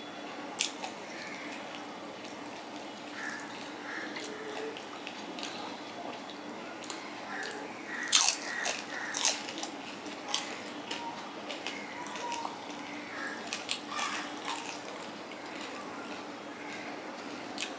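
Close-up mouth sounds of chewing and biting fried hilsa fish and rice, eaten by hand: wet mouth clicks and sharp bites scattered through, the loudest bunch about eight to nine and a half seconds in.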